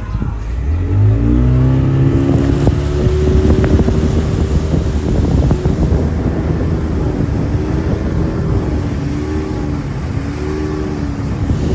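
Racing motorboat engine revving up over the first second or two, then running hard with its pitch wavering, over a loud rushing noise.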